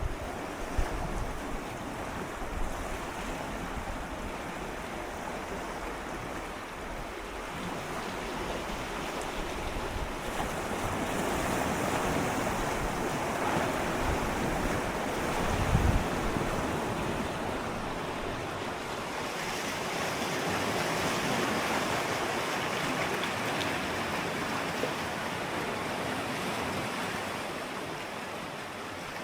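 Gentle sea waves swirling and lapping against shoreline rocks at close range, a continuous wash that swells louder twice, with a brief low thump about halfway through.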